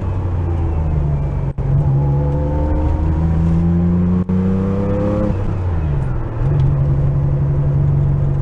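Porsche 911 flat-six engine pulling under acceleration, its pitch rising steadily for about four seconds. It then drops over about a second and settles into a steady, even drone.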